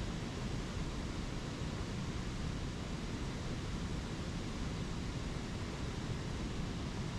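Spring creek water rushing over small waterfalls: a steady, even rush with a deep low rumble and no change in level.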